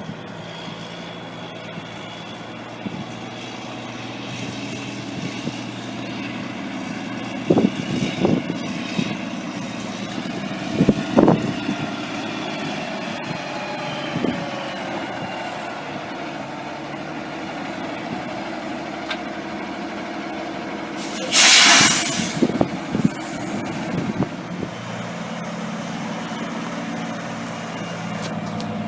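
Diesel semi-truck engine idling steadily, with a few short knocks about eight and eleven seconds in. About twenty-one seconds in comes a loud, hissing burst of air from the air brakes, lasting about a second.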